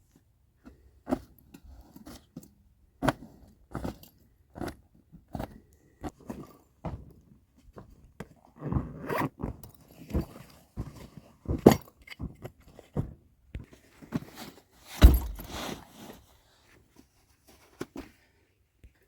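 A series of irregular scrapes, clicks and knocks from something being handled, with the loudest knocks about twelve and fifteen seconds in.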